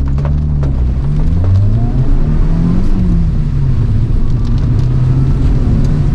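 Toyota AE111 Trueno's four-cylinder engine revving, its pitch climbing and dropping back a couple of times before settling to a steadier note.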